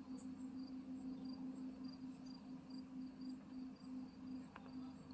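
A faint steady low hum, with a high, thin insect chirp repeating evenly about twice a second and a light click near the end.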